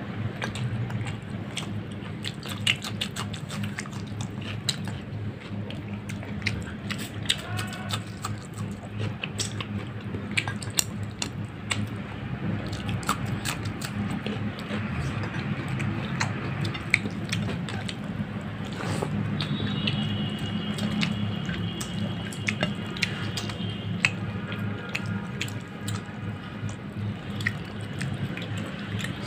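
Close-up wet eating sounds: chewing and lip-smacking of gravy-soaked rice and whole fish curry eaten by hand, with many small sticky clicks and squelches from the mouth and fingers. A steady low hum runs underneath.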